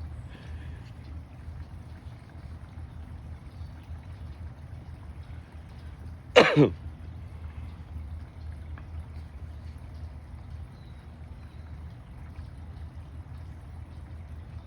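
A person close to the microphone gives one short, sharp cough about six seconds in, over a steady low rumble.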